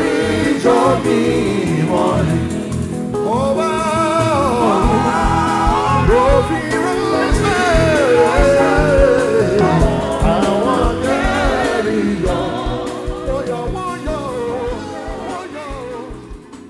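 Gospel singing with band accompaniment and a steady low beat, fading down over the last few seconds.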